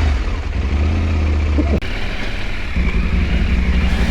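Adventure motorcycle's parallel-twin engine running at low revs while picking over rocks, its note changing abruptly about two seconds in.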